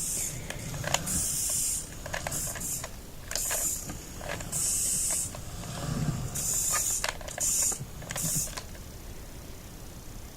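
Handling sounds from a Siku Scania toy truck: sharp clicks, as of its light switches being pressed, between about six short hissing bursts.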